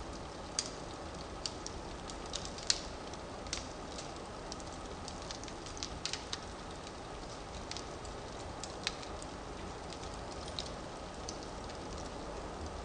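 Wood fire burning in a fireplace: a steady low rush of flame with irregular sharp crackles and pops from the burning logs, two of them louder, under a second in and near three seconds in.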